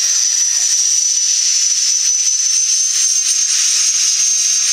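Alpha Jet turbofan engines running with a steady, loud hiss and a high whine that slowly rises in pitch.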